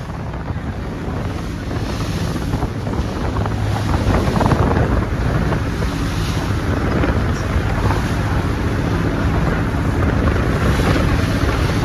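A boat's engine running with a steady low drone, under wind buffeting the microphone and rushing water.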